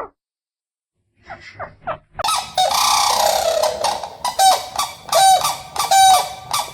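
An animal calling in a rapid series of loud, harsh honking calls. It starts as several overlapping calls with a falling cry, then settles into short calls repeated about once every 0.7 s.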